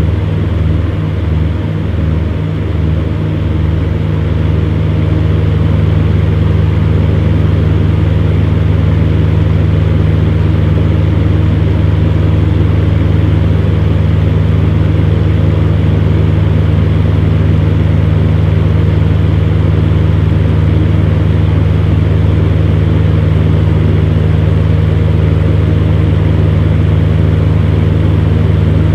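Electric fan running steadily: a low motor hum over an even rush of air. For the first few seconds the hum pulses, about twice a second, then it settles into a constant drone.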